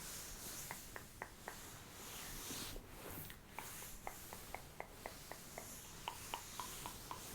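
Light, quick taps and clicks on a small hard object, irregularly spaced and coming faster in the second half, each with a brief high ring, over a soft rustle.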